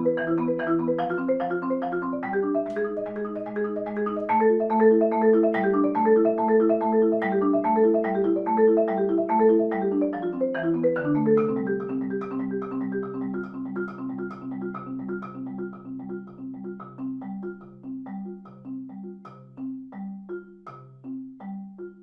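Solo Adams marimba played with mallets: a flowing stream of quick, evenly spaced notes. It is loudest around the middle and grows gradually softer toward the end.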